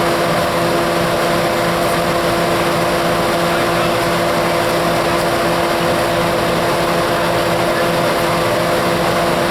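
A large engine running steadily at one unchanging pitch, a constant droning hum over a noisy rumble.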